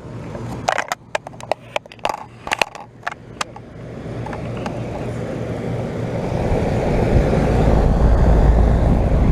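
2012 Bryant Legacy air-conditioner condenser running just after a cleaning, with its fan and compressor sounding much better. A run of sharp clicks or knocks comes in the first few seconds. Then the fan's rushing noise grows steadily louder, with a heavy low rumble over the last few seconds.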